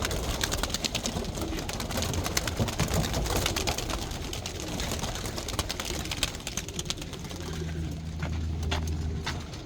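Pigeons fluttering and clattering their wings in a rapid, dense run of clicks, with some cooing. A low steady hum joins in about three quarters of the way through.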